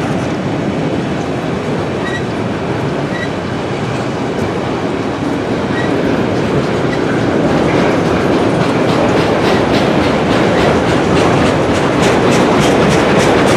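Autorack freight cars rolling past on steel rails: a steady rumble of wheels with a few short high squeaks. In the second half it turns into a fast, regular clickety-clack that grows louder.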